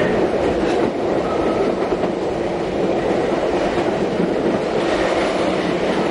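Train running along the track, a steady rumble of wheels on rails with a few faint clicks.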